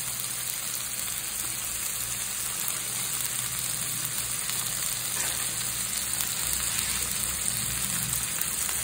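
Chopped onions and tomatoes frying in oil in a kadai, a steady sizzle.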